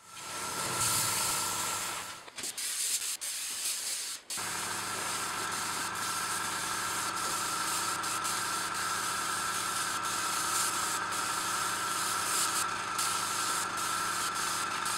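Airbrush spraying paint with a steady hiss, its small compressor humming at a constant pitch; the sound settles into an even run about four seconds in.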